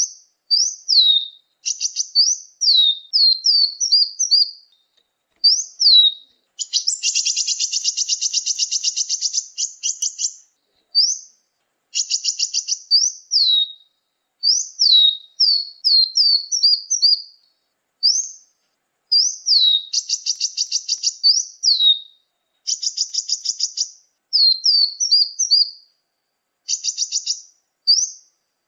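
Bird-lure recording of small songbird calls: high, thin, down-slurred chirps in quick runs, broken by longer buzzy trills about seven seconds in and again around twenty seconds.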